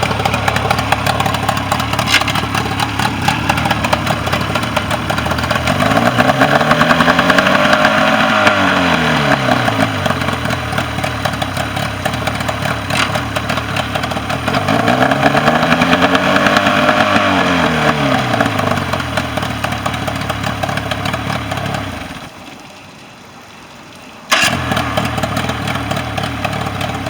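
Mercury 40 hp outboard motor running after its no-start problem was fixed, idling and revved up and back down twice. Near the end the sound drops away for about two seconds, then the engine is heard running again.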